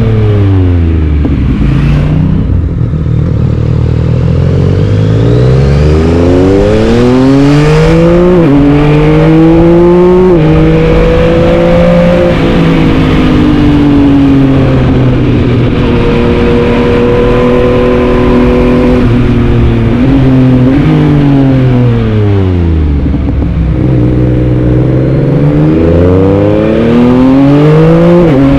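Yamaha MT-09's inline three-cylinder engine under way. It slows at first, then pulls hard up through the gears with quick upshifts, cruises at steady revs, slows again, and accelerates back up through the gears near the end. Wind noise is mixed in.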